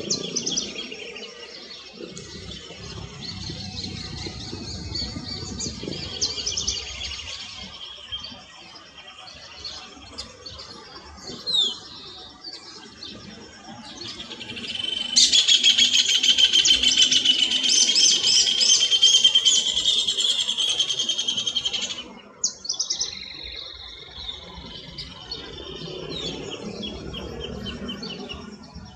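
Birds calling and chirping, with many short high calls. Midway a loud, dense, high buzzing trill starts suddenly, runs for about seven seconds and cuts off abruptly.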